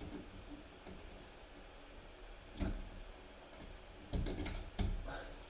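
A few light knocks and clicks as the parts of a Moen shower valve's handle assembly are handled and fitted: one about two and a half seconds in, a quick cluster around four seconds, and another just before the end.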